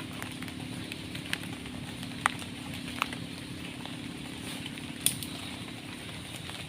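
Steady heavy rain falling in the forest, with a few sharp louder drops or taps scattered through it.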